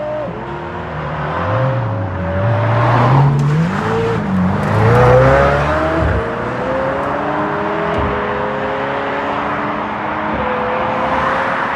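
Supercar engines accelerating away, the pitch climbing in several rising sweeps that each drop back, like upshifts. The sound is loudest about three to five seconds in.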